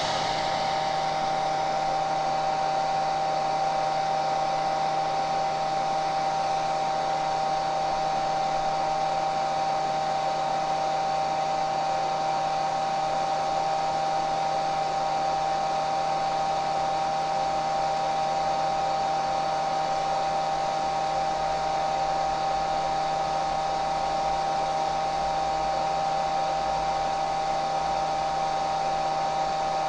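Hair dryer running continuously: a steady rush of air over an unchanging motor hum with a clear whine.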